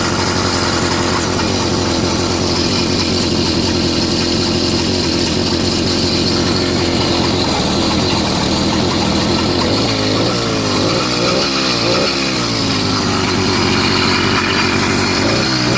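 80cc two-stroke motorized-bicycle engine running steadily, then revved up and down several times from about ten seconds in.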